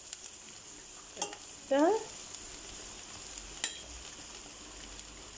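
Sliced onion, bay leaf and thyme sizzling in melted butter in a stainless-steel pot, just starting to fry, as a metal spoon stirs them and clicks against the pot twice. Just before two seconds in there is a short rising squeak.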